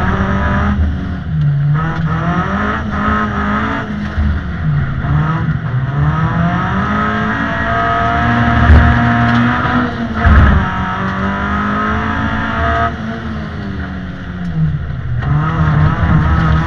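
Honda Civic EG6's VTEC four-cylinder engine heard from inside the cabin while driven hard, revs climbing and falling through the gears with sudden drops in pitch at each change, over road noise. Two loud thumps come a little past halfway.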